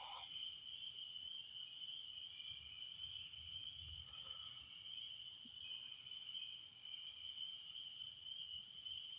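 Faint, steady chorus of night insects, crickets trilling continuously at a high pitch. A faint low rumble swells about three to four seconds in.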